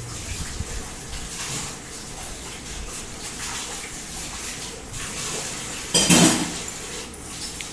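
Dishes and cutlery clinking as food is handled, with scattered light clicks and one louder metallic clatter about six seconds in.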